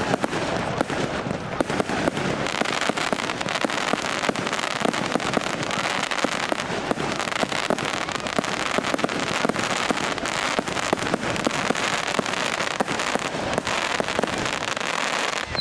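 Fireworks display: a dense, unbroken barrage of crackling and popping bursts.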